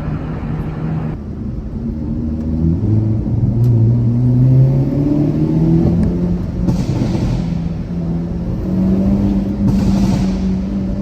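Hyundai Avante N (Elantra N) 2.0-litre turbocharged four-cylinder engine and exhaust accelerating through the gears, the engine note climbing and dropping back at each shift, then holding steady near the end.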